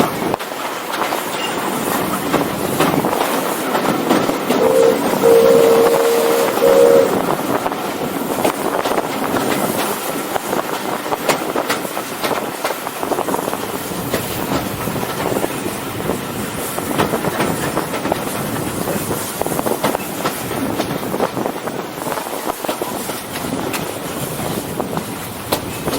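Steam-hauled heritage train running along the line, its wheels clicking over the rail joints. About five seconds in, the locomotive's whistle gives a short blast and then a longer one.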